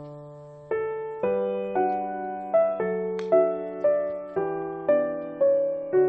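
Background music: slow, gentle solo piano. Notes or chords start about every half second and each fades before the next.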